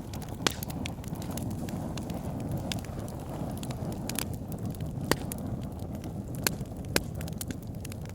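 Campfire burning: a steady low rush of flames with scattered sharp crackles and pops of burning wood, a few louder snaps standing out.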